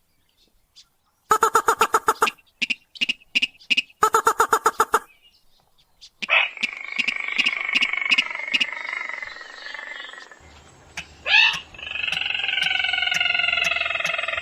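Rail and crake calls from a bird-lure recording: after a moment of silence, bursts of rapid harsh pulsed notes, then a longer drawn-out call with clicks, and slowly falling notes near the end.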